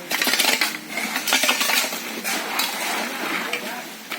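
Hand tools clinking and scraping on stones in a rapid, irregular run of sharp metallic strikes.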